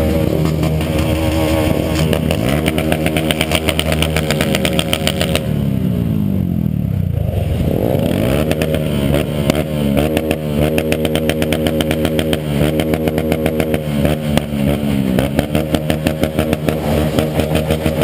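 Motorcycle engines running and revving, more than one at once; about six seconds in, one engine's pitch falls steeply and then climbs again.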